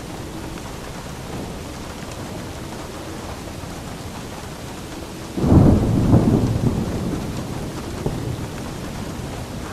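Steady rain falling, with a sudden clap of thunder a little past halfway that rumbles and fades over about two seconds.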